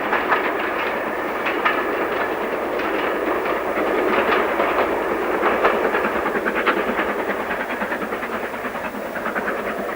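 LMS Stanier Black Five steam locomotive and its train running past, a steady clattering rumble with the wheels clicking over rail joints, a little louder in the middle and easing off towards the end.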